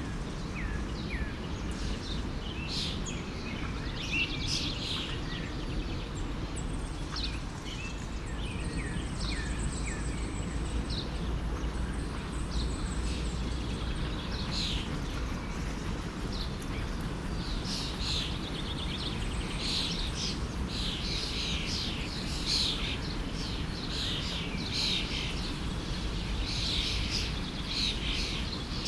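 Songbirds chirping and singing over the steady rush of a forest stream, the calls coming thicker in the second half.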